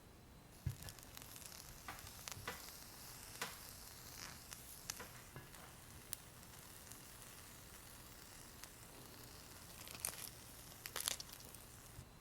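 Food sizzling faintly as it cooks, with scattered light clicks and taps of kitchenware throughout and a louder cluster of taps about ten to eleven seconds in.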